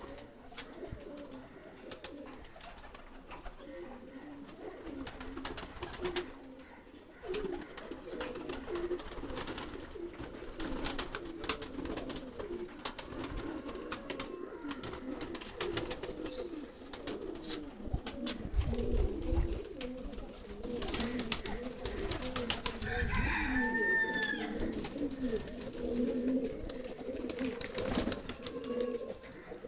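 Domestic pigeons cooing over and over, with many short clicks and taps among them and a few brief higher calls later on.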